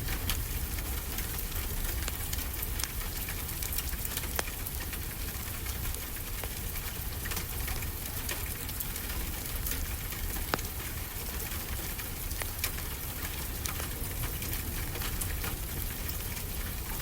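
Wood fire in a fireplace crackling, with scattered sharp pops at irregular moments, over a steady low wash of ocean waves.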